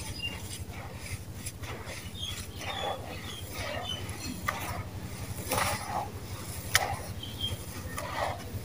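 Dry sand-cement crumbling in a tub: irregular gritty crunches and crackles, with one sharper snap near the end, over a steady low hum.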